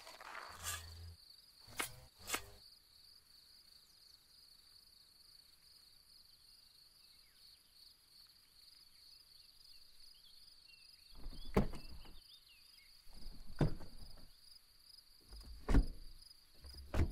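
Crickets chirping in a steady, pulsing trill. In the first couple of seconds there are a few soft thuds of shovelled dirt landing on a buried box, and in the last six seconds four heavier thumps.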